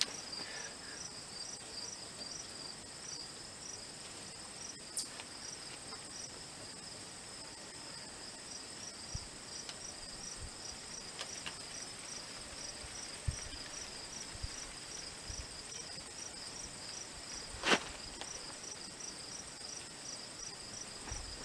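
Crickets chirping in an even, rapid pulse, with a steady high insect trill above them. A single sharp click comes late on, with a few faint low knocks before it.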